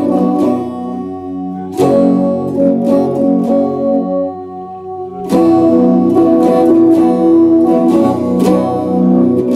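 Epiphone Les Paul Special II electric guitar strummed, its chords left to ring; hard strums come about two seconds in and again about five seconds in, with lighter strokes between.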